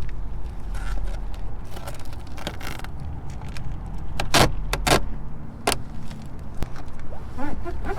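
Clear Gorilla tape being pulled and pressed onto a car's body trim: a series of sharp rips and clicks, three of them loud in the middle, over a steady low hum.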